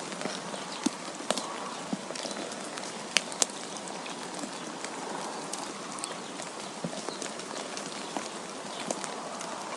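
Wind and falling snow: a steady hiss scattered with light ticks and taps, a few of them sharper about a second in and again around three seconds in.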